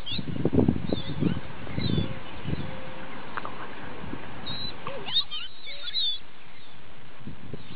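Small birds chirping, short quick high calls, with a busier run of chirps about five seconds in.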